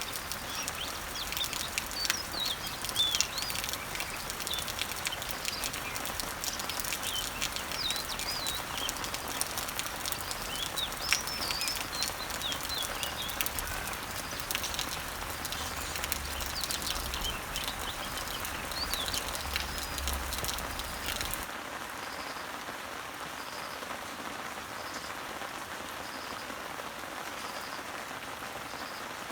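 Rain pattering on garden leaves, with many small drop ticks and birds chirping over it. About 21 seconds in, the sound cuts abruptly to a softer, even rain hiss without the bird calls, with a faint high note repeating about once a second.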